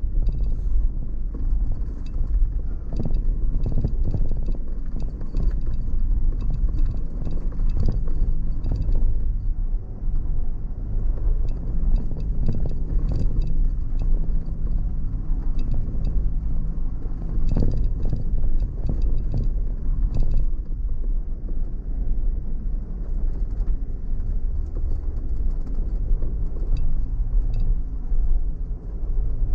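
Car driving slowly over a rough, stony off-road track: a steady low engine hum and rumble, with frequent knocks and rattles, most of them in the first two-thirds.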